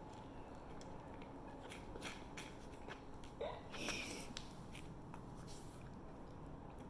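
Faint, scattered clicks and soft smacks of a puppy eating a piece of cheese, with a brief small squeak about three and a half seconds in.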